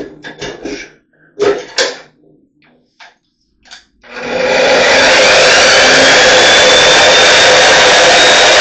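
A few knocks and clatters, then about four seconds in an electric power tool's motor starts up, winds up in pitch and runs steadily at full speed.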